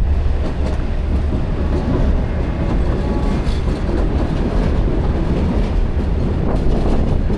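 Steady low rumble of passing vehicles in city traffic, with a few faint clicks.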